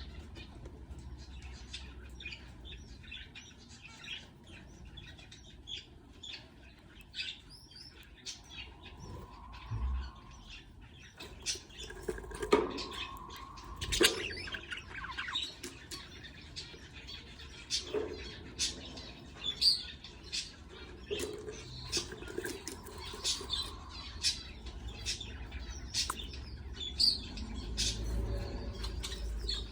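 Budgerigars chirping: a steady run of short, sharp chirps, with a few louder calls scattered through.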